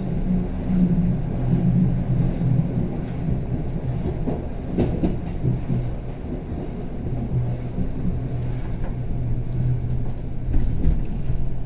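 Bernina Express passenger train running, heard from inside the carriage: a steady low rumble and hum, with occasional faint clicks and knocks from the wheels on the track.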